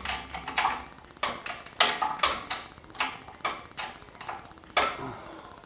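Sharp metallic clicks and knocks, about a dozen at uneven intervals, as the engine is raised on a hoist and worked into the bay.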